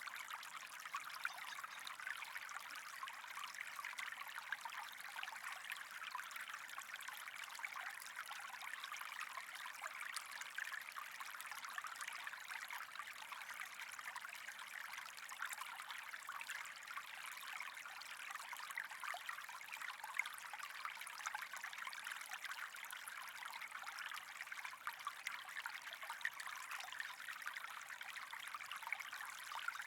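Steady trickling, bubbling water, an even crackling hiss with no pauses.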